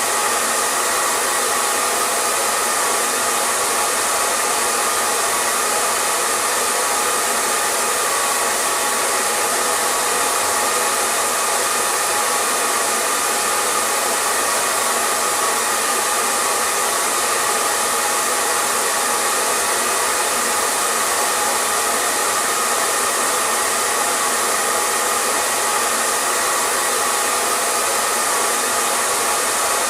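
Hair dryer running steadily: a constant rush of blown air with a faint motor hum and whine in it, unchanging throughout.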